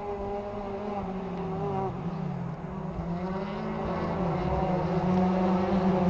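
Car engine running, its pitch wavering, dipping about two seconds in and then climbing back and holding, while it grows steadily louder.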